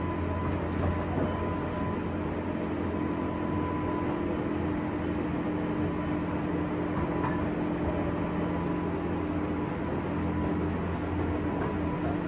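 Onboard running sound of a JR West 201 series electric train, heard inside the motor car MoHa 201-266. It is a steady drone of wheels and running gear with a low hum and a few high, held tones from the drive equipment.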